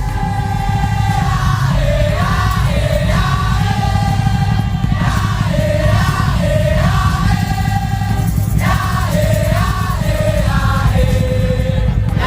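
Madurese tong-tong (daul) ensemble playing: a wavering, high melody line in short repeated phrases over steady heavy drumming.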